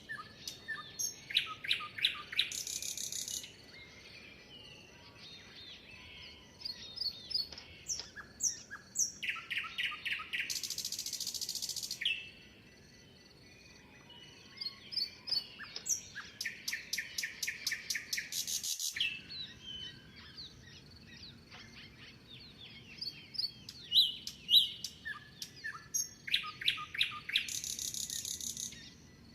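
Songbird singing the same phrase about four times, roughly every eight seconds: a quick run of chirps ending in a short, high buzzy trill. Softer scattered chirps fill the gaps between phrases.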